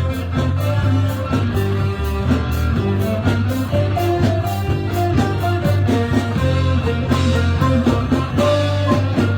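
Live band playing an instrumental passage: guitar over bass and a steady beat.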